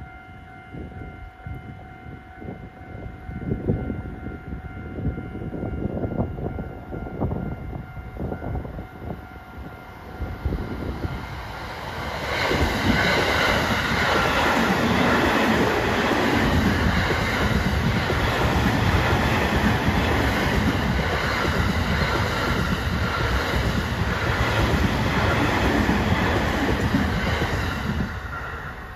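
A JR E231 series 1000 electric commuter train of fifteen cars approaching and passing close by at speed: a low rumble builds for about twelve seconds, then the loud rush of the passing cars with a rhythmic clatter, fading quickly as the last car goes by near the end.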